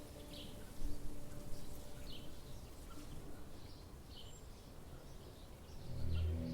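Birds giving short, high chirps every half second or so over a faint low background hiss. Near the end, deep sustained music tones swell in.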